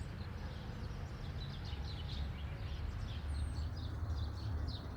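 Small birds chirping in many short, high calls over a steady low rumble of outdoor background noise.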